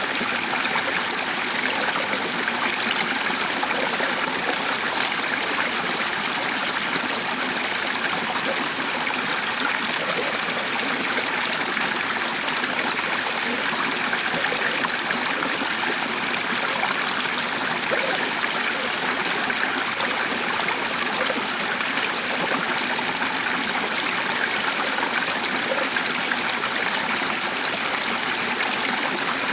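Running water of a stream flowing steadily, an even rushing with no change in level.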